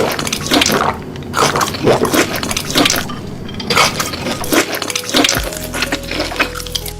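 Wet chewing and mouth sounds close to the microphone, coming in uneven bites several times a second.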